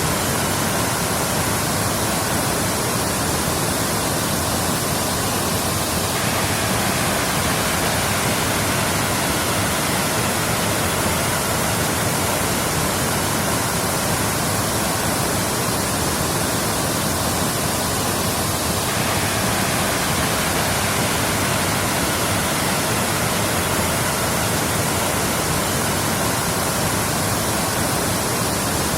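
Waterfall rushing, a steady, even roar of falling water with no breaks or changes.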